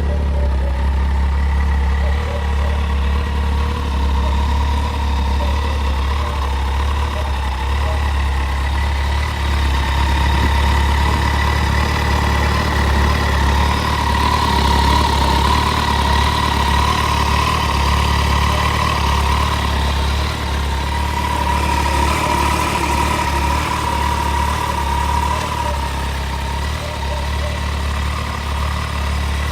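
Kawasaki ZZR 1400's inline-four engine idling steadily, with a deep low hum.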